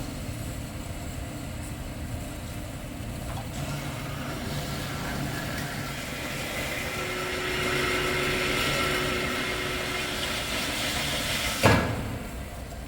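Metal-cutting saw running through square hollow section steel: a steady grinding noise with a faint steady whine, growing louder through the middle of the cut. A single sharp clunk near the end.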